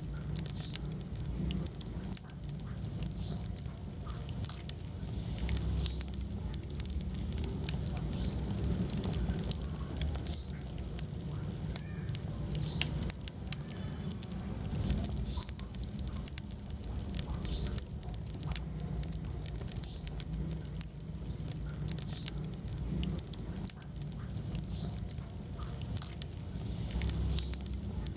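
Wood fire burning in a fireplace: a steady low rumble of flames with many small crackles and pops throughout.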